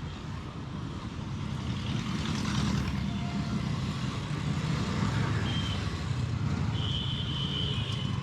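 Motorcycle riding in traffic, heard through a lapel mic inside the helmet: a steady low rumble of engine and wind. Two short high-pitched beeps come late, a brief one and then a longer one lasting about a second.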